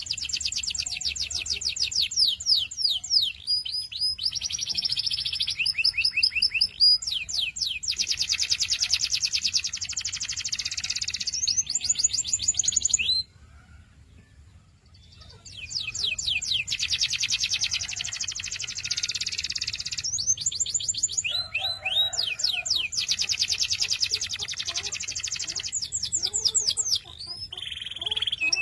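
Domestic canary singing: long, fast rolls and rapidly repeated sweeping notes, high-pitched. The song breaks off for about two seconds near the middle, then resumes.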